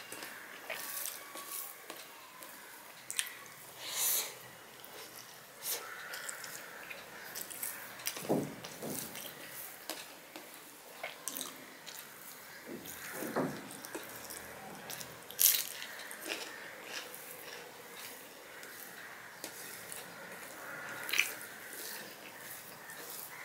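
Close-miked eating sounds: wet chewing and mouth smacks as a man eats rice and vegetable curry by hand, with sharp irregular clicks scattered through and a few louder smacks.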